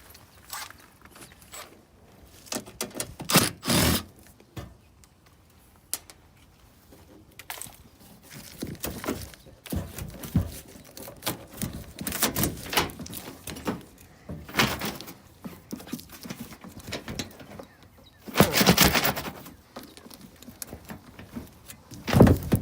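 Sheet-metal access panels of a Goodman gas package unit being opened and handled: scattered knocks, clunks and rattles, with two louder rattling stretches, one a few seconds in and one near the end.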